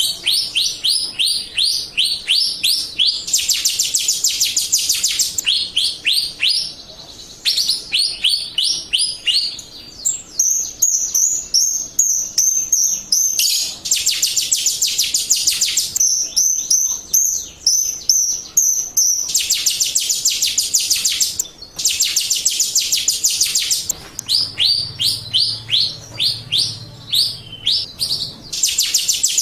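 Jalak Rio starling calling: fast runs of short, sharp chirps, several a second, in phrases broken by brief pauses.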